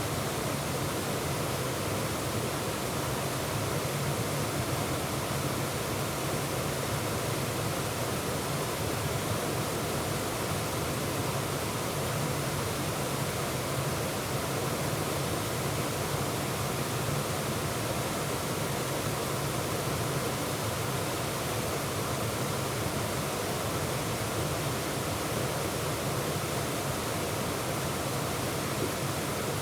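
Bear's Den Falls, a woodland waterfall, pouring steadily: a constant, even rush of falling water heard close up.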